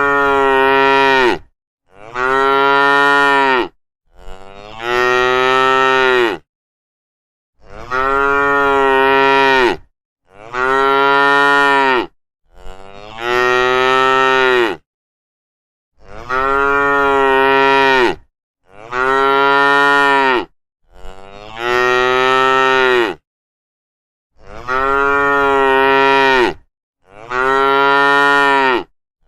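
Cattle mooing: a series of about a dozen long moos, each about two seconds, one after another with short silent gaps between them.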